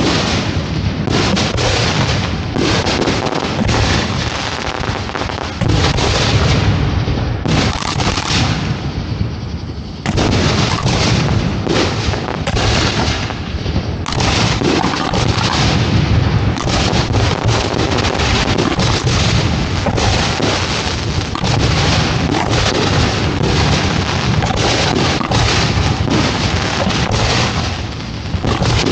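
Display fireworks firing in a dense, continuous barrage: overlapping launches and bursts of booms and cracks with hardly a gap, heard from close to the firing site.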